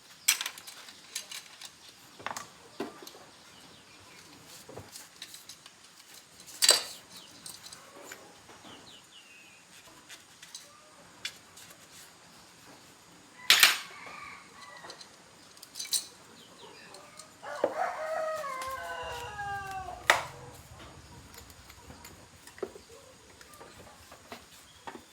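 Scattered sharp metal clinks and clanks of tools and parts being handled during motorbike disassembly, about half a dozen in all. A rooster crows once, about two-thirds of the way in.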